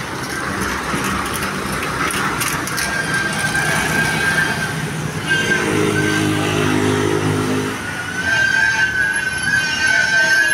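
Coach bus engine running as a convoy bus pulls past. A low pitched horn-like blast sounds for about two seconds midway, and a steady high tone sounds before and after it.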